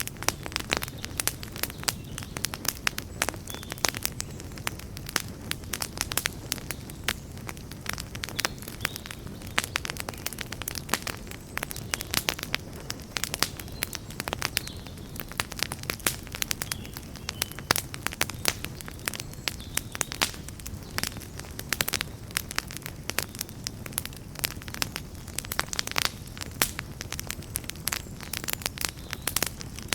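Campfire crackling: a dense, irregular run of sharp pops and snaps over a steady low rumble of the burning fire.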